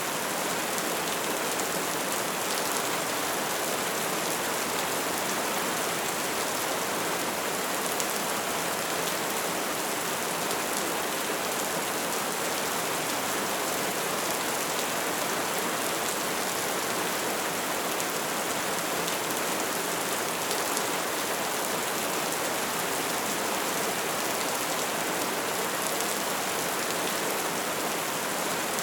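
Bonfire burning: a steady hiss of flames with dense, even crackling and small pops throughout.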